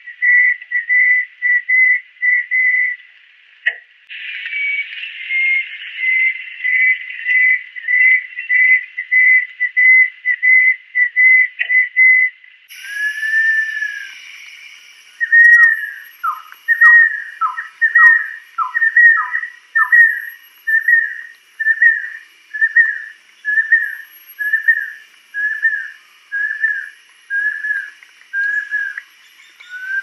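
A bird whistling long series of short, clear notes, about two or three a second. The later notes slur downward and slow toward the end, over a steady high background hiss.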